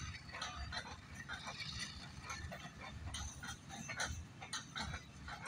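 Freight train wagons rolling slowly past: a steady low rumble with irregular squeals and clanks from the wheels and couplings.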